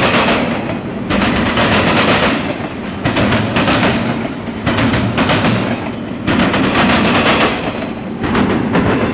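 Norfolk Southern double-stack intermodal train's container well cars rolling past close by: a loud steady rumble of steel wheels on rail. Through it, clusters of rapid clacks come about every second and a half as each set of wheels passes.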